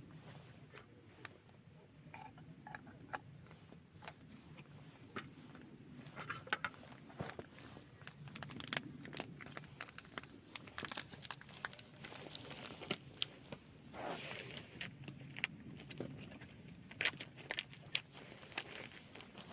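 Hands handling packaging and small objects: plastic crinkling and rustling, with many small clicks and knocks scattered throughout, busier in the second half.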